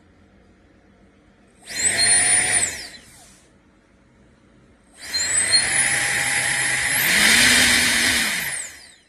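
K&F Concept BS400 electric air duster run twice: a short burst, then a longer run. Each time its high motor whine and rush of air spin up, and in the longer run the whine steps higher about two-thirds of the way through before winding down.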